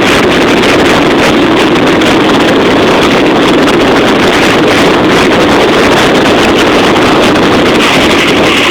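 Helicopter departing at close range: loud, steady rotor and engine noise.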